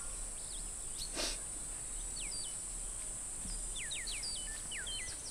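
Outdoor ambience: birds calling with short, quickly falling whistles, a few at a time and mostly in the second half, over a steady high-pitched insect drone. A brief soft rustle about a second in.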